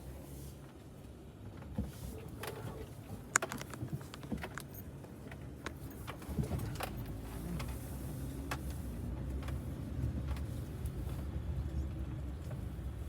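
A car or van moving slowly, with a steady low engine and road rumble that grows a little louder partway through, and scattered clicks and light rattles, the sharpest a little after three seconds in.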